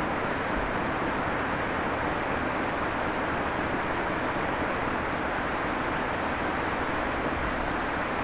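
A steady, even rushing noise with no distinct knocks, tones or changes in loudness.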